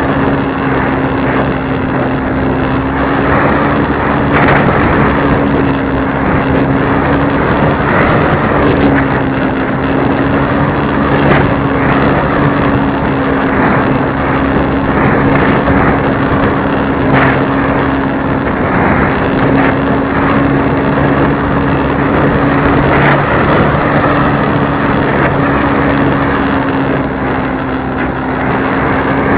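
Radio-controlled model airplane's motor and propeller running at a steady, nearly unchanging pitch, with loud rushing airflow noise.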